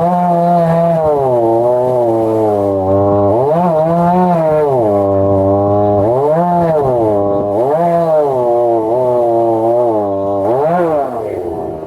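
Two-stroke chainsaw running under load as it mills through a log, its engine pitch repeatedly dipping as it bogs in the cut and then climbing back. Near the end the engine sound drops away.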